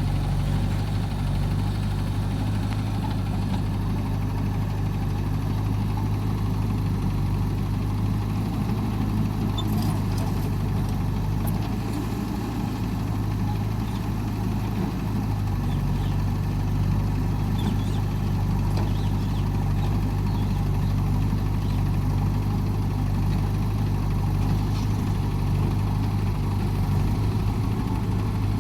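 Heavy diesel engine running at a steady speed, a low even drone with no change in revs.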